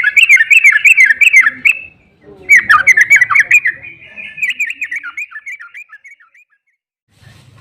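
Yellow-vented bulbul (trucuk) giving its fast chattering 'ropel' song in three bouts of quickly repeated notes, the third bout trailing off and fading about six seconds in.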